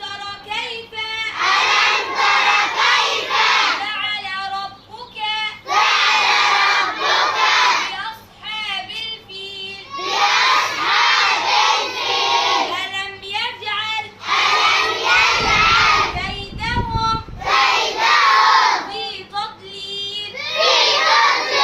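A group of children chanting together in unison, in loud phrases of a second or two separated by short pauses. A brief low rumble comes in about fifteen seconds in.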